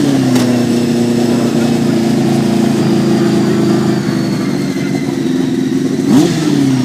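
Racing sidecar outfit's engine held at steady high revs on the start line, with one quick blip of the throttle near the end.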